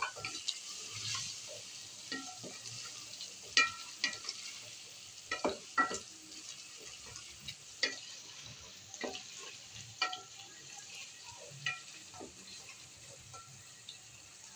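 Chicken and masala sizzling as they fry in an aluminium pot, stirred with a spatula that knocks and scrapes against the pot's sides at irregular intervals, some knocks leaving a short metallic ring.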